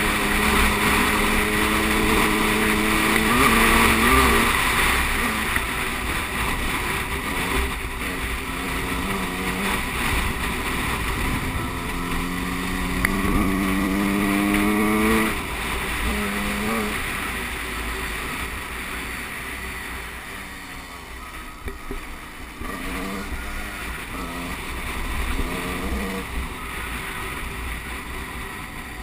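Motocross bike engine revving up and down, its pitch rising under throttle and dropping off again, over a steady rushing noise. It is louder in the first half and fades somewhat after about halfway.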